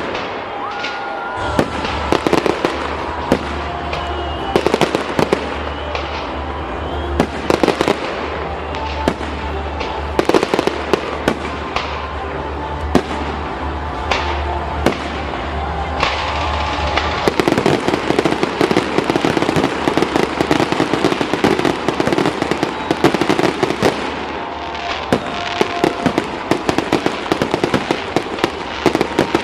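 Fireworks display: aerial shells bursting in a long run of sharp bangs, many close together, with the bangs and crackle coming thicker in the second half.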